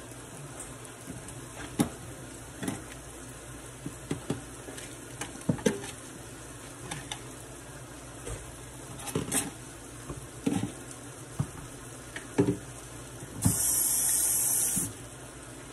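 Chicken breast pieces frying in oil in a skillet over moderate heat: a steady sizzle with irregular sharp spattering pops. Near the end a loud hiss lasts about a second and a half.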